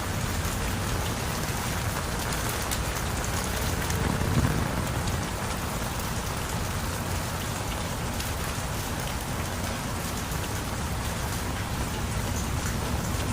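Heavy rain falling steadily, a dense even hiss of drops on surfaces. About four seconds in there is a brief low rumble.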